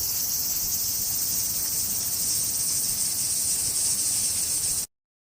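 Steady high-pitched chirring of an insect chorus. It cuts off abruptly near the end.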